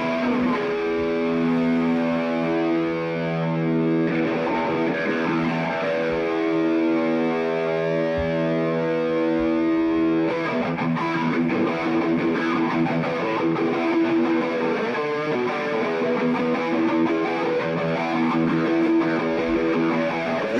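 Distorted electric guitar through effects, holding long sustained notes and chords, with little bass or drums underneath.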